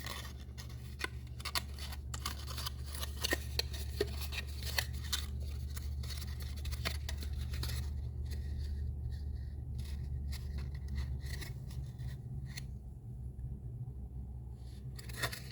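Cardstock being handled as adhesive goes on the tabs and a small paper box is folded and pressed together. It comes as a run of small sharp paper clicks and rustles, busiest in the first half, over a low steady hum.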